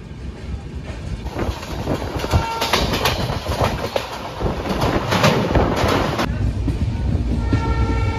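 Passenger train running on the rails, heard from inside a coach with the windows open: steady rumble with the wheels clattering over the rail joints. The clatter turns harsher and denser from about a second in until a little past the middle, while crossing a steel truss bridge, then settles into a deeper rumble.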